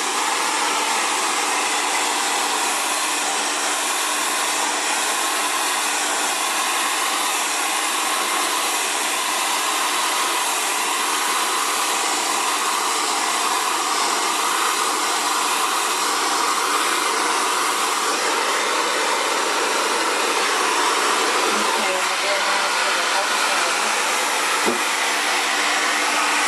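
Xtava Allure 2200-watt ionic ceramic hair dryer blowing steadily on a lower-than-high speed setting, a constant whooshing airflow with a faint motor hum underneath.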